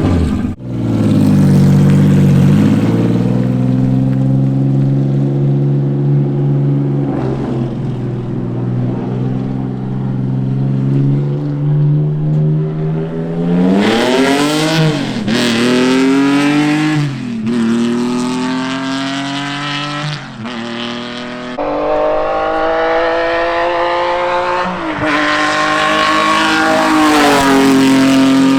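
Race car engine, a Honda J35A4 V6 swapped in place of the stock four-cylinder, pulling hard on track. Its pitch climbs and drops back several times as it shifts through the gears.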